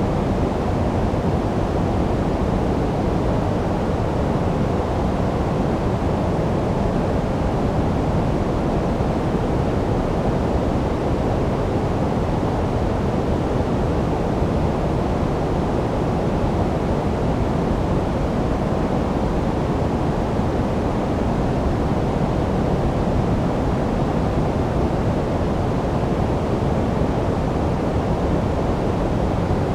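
Steady sleep noise, an even deep hiss that is heavier in the lows and softer in the highs, unchanging throughout.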